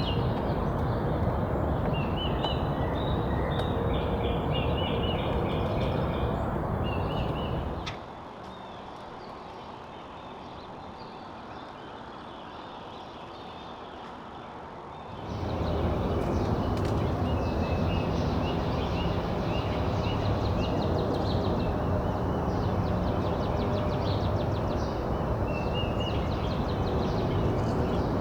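Small songbirds singing and calling, with short repeated trills, over a steady low background rumble. From about 8 seconds in the sound turns quieter and muffled for about seven seconds, then comes back.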